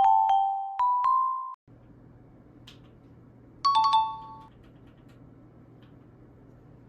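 Background music of bell-like mallet-percussion notes that ends about one and a half seconds in. After it comes quiet room tone with a low steady hum, broken near the middle by a short two-note chime that fades out.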